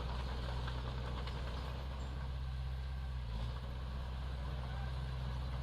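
Heavy-equipment diesel engine running steadily at low, even revs.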